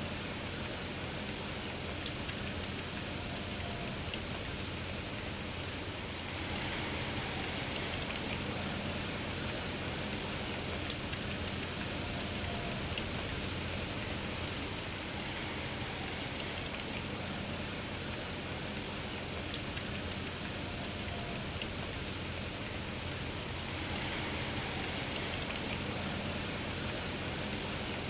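Steady rain falling, an even hiss with gentle swells in strength. Three sharp ticks stand out, evenly spaced about eight or nine seconds apart.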